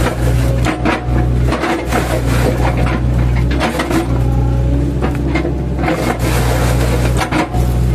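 Mini excavator's diesel engine running steadily under load while it chips an oil palm trunk, with repeated knocks and cracks of the wood being chopped.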